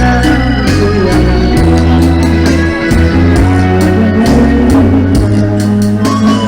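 Loud karaoke backing music: sustained electronic organ-like keyboard chords over a bass line that steps from note to note.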